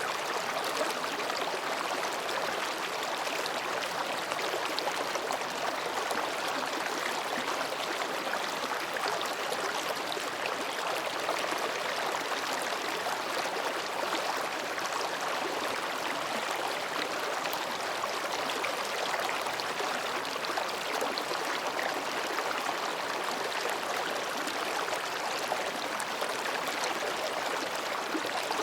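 Mountain stream running steadily over and between rocks, a continuous babbling and rushing of water.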